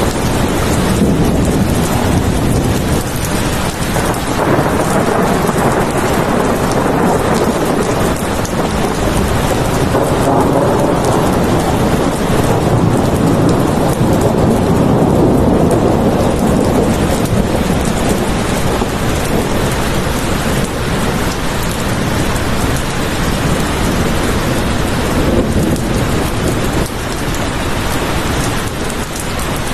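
Steady heavy rain, with a low rumble of thunder swelling and fading around the middle.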